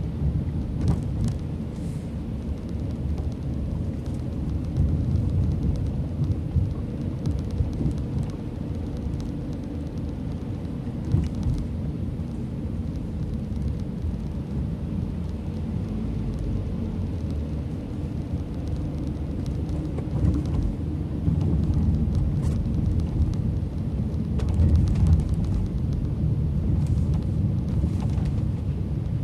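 Car driving, heard from inside the cabin: a steady low rumble of tyres on the road and the engine, with a few light clicks and knocks.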